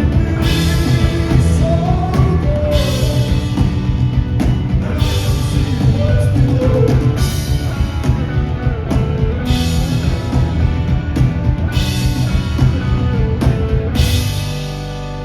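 Live rock band playing loudly through a venue PA: drums with a cymbal crash about every second, bass and guitars. A little before the end the drums stop and the sound thins to a ringing chord.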